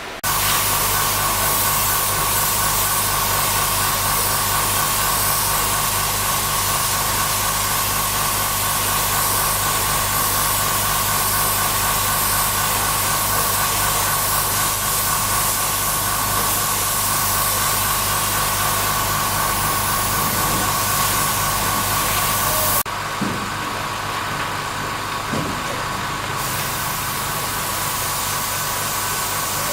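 An engine idling steadily, with a constant hiss over it. The sound changes abruptly about three-quarters of the way through, becoming a little quieter and duller.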